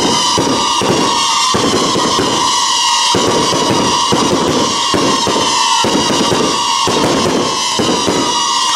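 Aerial fireworks display: dense rolls of bangs from bursting shells, coming in runs of half a second to a second, over a continuous high hiss.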